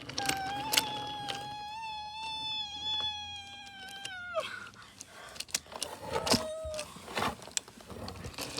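Small electric motor of a toy subway train whining at a steady high pitch, then dropping in pitch and stopping about four seconds in. Scattered clicks and rattles run alongside it and continue after it stops.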